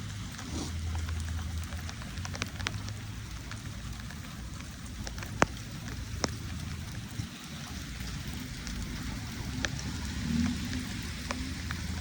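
Steady rain falling, with scattered single drops tapping sharply close by and a low steady rumble underneath.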